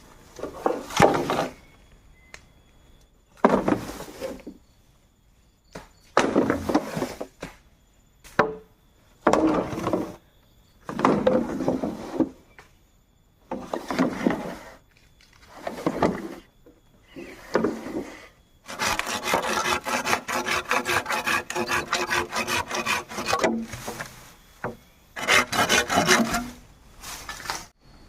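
Bamboo being worked with a hand tool: about nine separate strokes, each roughly a second long, then about five seconds of quick continuous strokes, then two more strokes.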